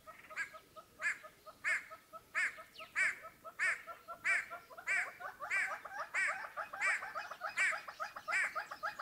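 Wreathed hornbill calling in a steady series, about three short calls every two seconds, with a faster run of softer, lower notes between them.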